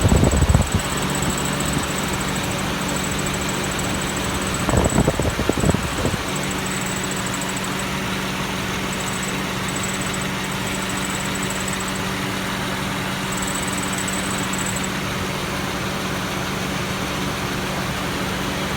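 Car engine idling steadily in the engine bay, with a thin high-pitched whine that keeps cutting in and out; this is the abnormal engine-compartment noise being recorded. A brief louder burst of noise comes about five seconds in.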